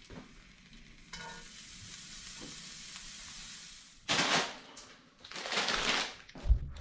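Food sizzling in a hot cast iron skillet: a steady hiss starts about a second in, followed by two louder bursts of sizzling at about four and five and a half seconds.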